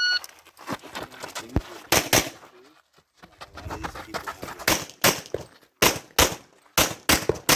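Shot-timer beep starting a USPSA stage, then pistol shots fired mostly in quick pairs: two about two seconds in, and more pairs in steady succession from nearly five seconds on.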